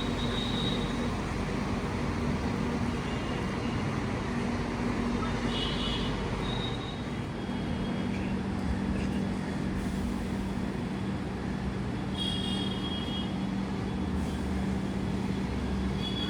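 Indian Railways train running, a steady rumbling noise with a low, even hum throughout. A few brief high-pitched tones sound over it.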